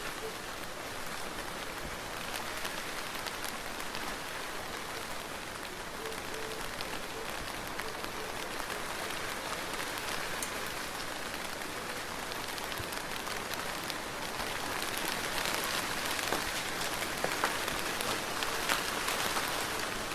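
Soft, steady rain falling, a continuous hiss with many small drop taps, the patter growing slightly denser in the last few seconds.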